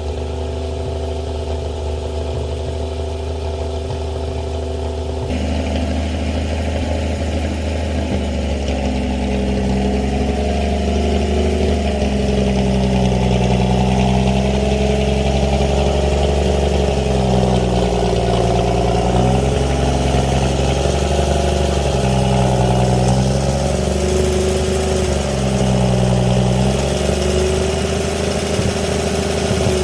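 Winch truck's engine running steadily. From about 12 seconds in, its pitch dips and recovers several times as the engine speed changes.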